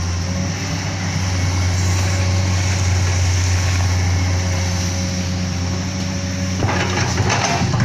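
A heavy machine's engine running steadily, with a burst of rattling and scraping near the end.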